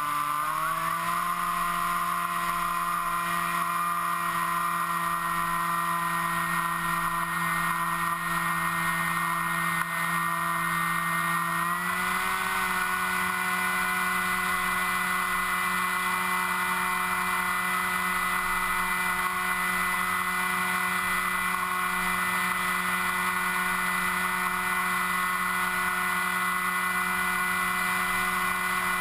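Motor and propeller of a small FPV model aircraft running steadily, heard from the onboard camera as a high, even hum. The pitch steps up twice, just after the start and about twelve seconds in, then holds.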